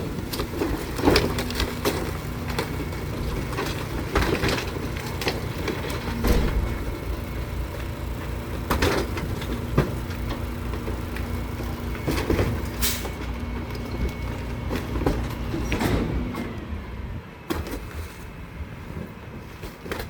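Garbage truck running with a steady engine hum, overlaid by repeated clanks and bangs from its lifting and packing gear. The truck sound drops away near the end.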